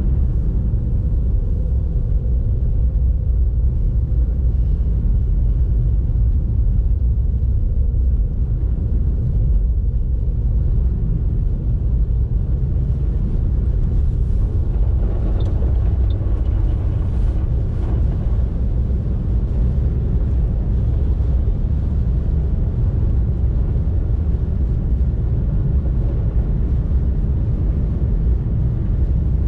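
Car driving, a steady low rumble of road and engine noise, with a brief swell of hiss about fifteen seconds in.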